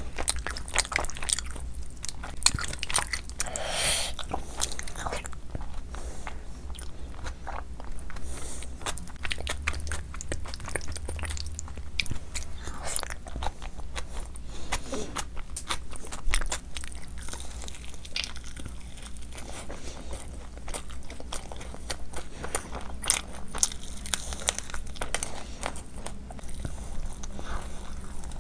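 Close-miked eating by hand: chewing, biting and lip smacking as mouthfuls of khichdi and mutton liver curry go down, and near the end a bite into a fried chicken lollipop. Many small clicks and smacks come one after another over a steady low hum.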